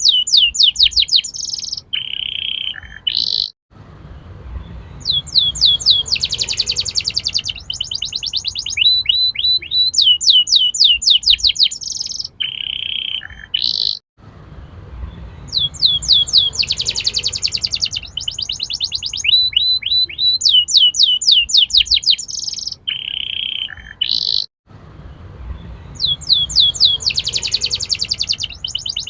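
Domestic canary singing fast rolling trills of quick rising notes, broken by short pauses. The same stretch of song repeats about every ten seconds, as a looped training recording for young canaries.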